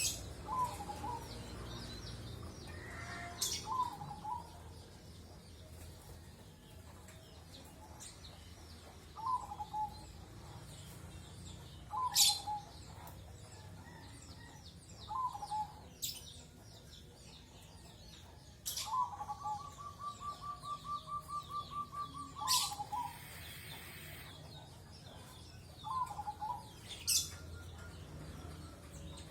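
Birds calling: short hooked notes around 1 kHz repeated every few seconds, with a fast even run of about a dozen notes about two-thirds of the way through. Sharp high chirps are scattered between them.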